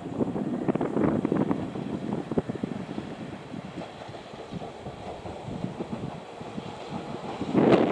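Wind buffeting the microphone in uneven gusts, strongest in the first second or so and again in a short loud burst near the end.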